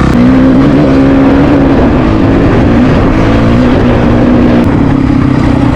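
Honda CRF450RL's single-cylinder four-stroke engine under throttle as the dirt bike pulls away, rising in pitch at the start and then running at a fairly steady speed with small changes in pitch.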